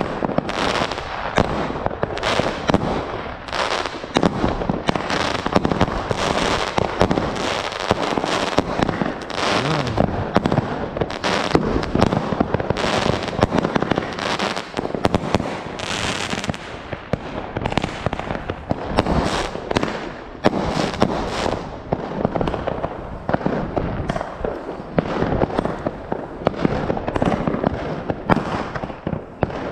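Fireworks and firecrackers going off without a break: many sharp bangs and crackles overlapping each other, several a second.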